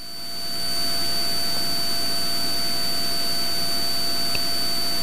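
Steady in-flight cabin noise of a Cessna 182 Skylane, an even hiss of engine and airflow heard through the intercom feed with a faint steady whine in it, fading up over the first second and then holding level.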